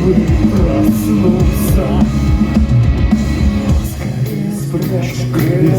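Rock band playing live in an instrumental passage between sung lines, with guitars and drum kit.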